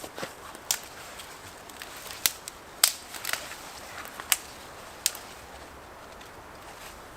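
Dry twigs snapping: about six sharp, separate cracks spread over roughly five seconds, the loudest near three seconds in.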